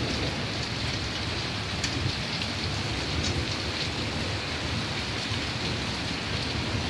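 Heavy downpour: a steady, dense hiss of rain pouring onto surfaces, with a few sharper ticks of drops striking about two and three seconds in.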